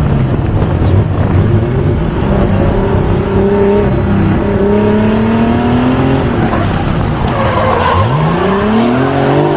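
Drift car engine revving hard under load with tires screeching as the cars slide. The engine pitch sags, then climbs steeply again about eight seconds in.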